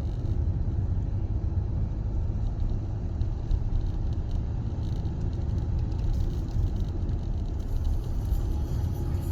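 Sea waves breaking and washing on the beach: a steady low rumble of surf with no distinct crashes.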